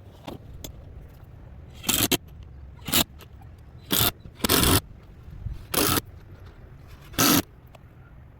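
Cordless drill driving screws through fence pickets into a support board, run in about six short bursts, the longest near the middle.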